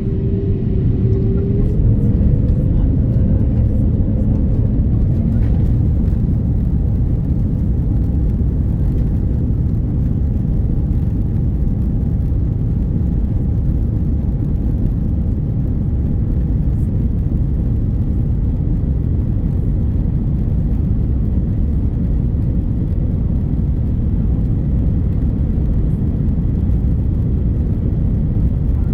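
Airbus A350-900's Rolls-Royce Trent XWB engines and airflow heard inside the passenger cabin: a loud, steady low rumble that swells slightly in the first few seconds and then holds.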